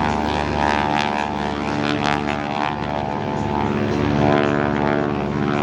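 North American T-6 Texan's radial engine and propeller running in flight, a steady drone with slight shifts in pitch.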